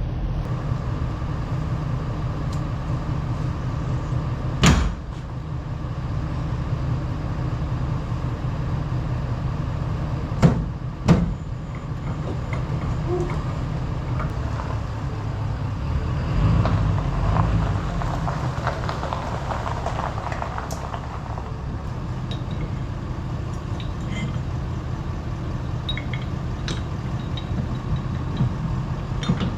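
A vehicle engine running steadily, with three sharp knocks, one about five seconds in and two close together near the middle.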